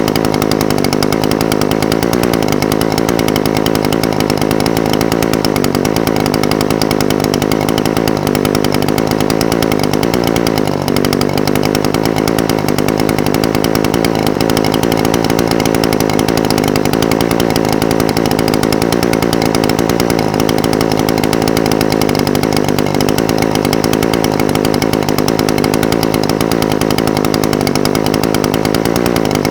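Echo SRM-420TES brush cutter's two-stroke engine idling steadily, its pitch wavering slightly now and then, with a brief dip about eleven seconds in.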